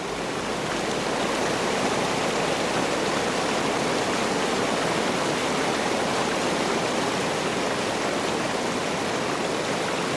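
Rushing water: a steady, even roar of flowing water with no breaks or changes.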